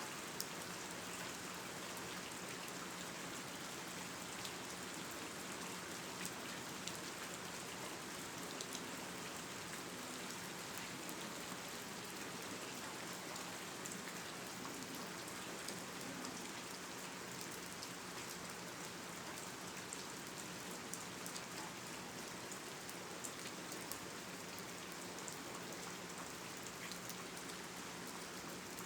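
Steady, even hiss with scattered faint crackles, like rain, over a faint low hum.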